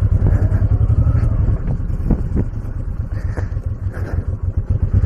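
Honda VTX1800C's big V-twin engine running at low speed with a deep, pulsing beat. A few sharp knocks come around the middle, and the engine gets louder again near the end.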